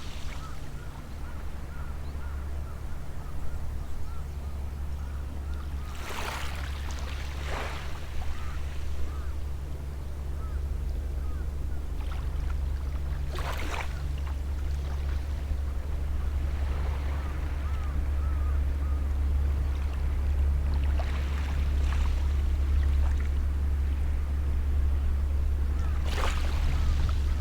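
Sea waves washing onto the shore every few seconds over a steady low rumble that grows slowly louder, with faint bird chirps in the background.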